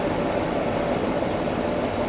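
A train at the station making a steady mechanical rumble, with a faint steady tone held above it.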